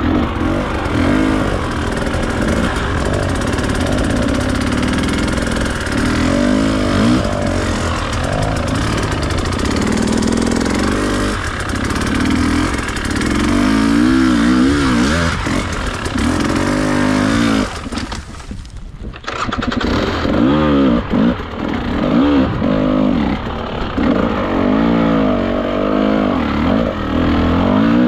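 Enduro dirt bike engine revving up and down over and over under throttle. About two-thirds of the way through it drops away for about a second, then picks up again.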